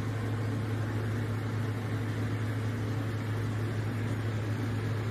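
A steady low hum with an even hiss, holding at a constant level throughout.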